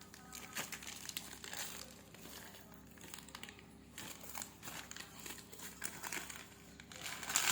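Packaging being handled and crinkling during an unboxing, with irregular small crackles and rustles that get louder near the end.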